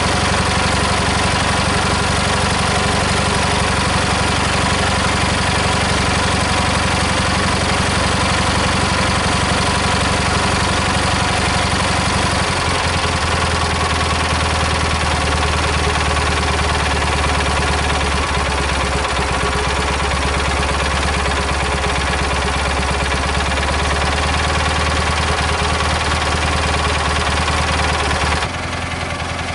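Cub Cadet 1811 garden tractor engine running steadily. About twelve seconds in its low note shifts down as the speed changes, and near the end it drops in level.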